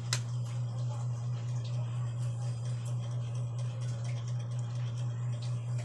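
Eating sounds: many small clicks and bits of chewing, with a sharper click right at the start, over a steady low hum.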